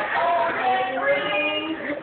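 Several voices singing at once, with held notes at different pitches overlapping.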